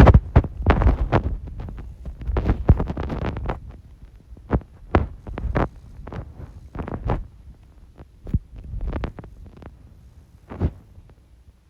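Irregular thumps and sharp knocks from mini-stick knee hockey play: sticks, ball and knees hitting the floor. They come thick for the first few seconds, then thin out to scattered single knocks.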